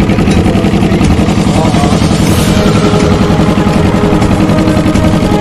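Small boat's engine running steadily at speed, with a rapid even pulse.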